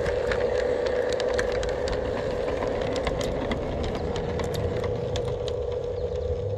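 Garden-scale model locomotive running on outdoor track: a steady motor whine over a low rumble, with irregular sharp clicks and rattles that thin out near the end.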